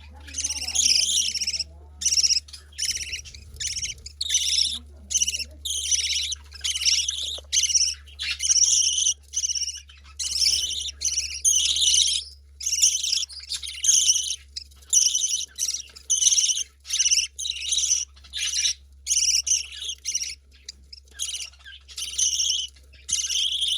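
Baby budgerigar begging to be fed, repeating short hissy calls about two a second without a break. A steady low hum runs underneath.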